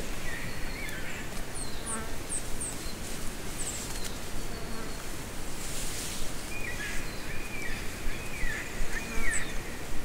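Forest birds calling, with short high chirps and warbling whistled phrases, over a steady background hiss.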